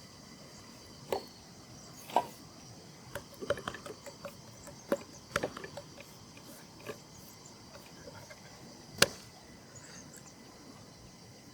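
Irregular sharp wooden knocks and taps, a quick cluster in the middle and the loudest single knock near the end, like food and utensils being handled on a wooden surface during cooking prep. A steady high insect chirr runs underneath.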